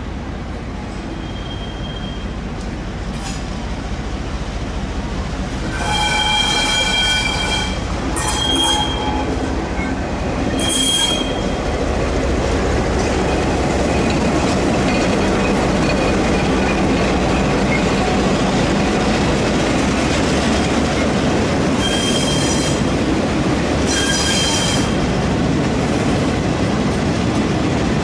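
Train rolling through the station, its wheels squealing on the rails in several short high screeches over a rumble that grows and then stays loud.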